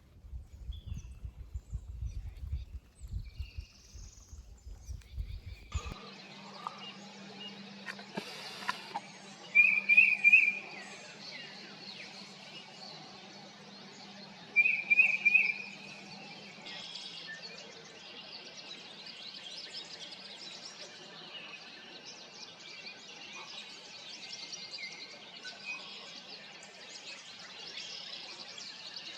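Low rumbling on the microphone for the first few seconds, then woodland birdsong. The loudest sound is a short trilled bird phrase sung twice, about five seconds apart, over fainter calls of other birds.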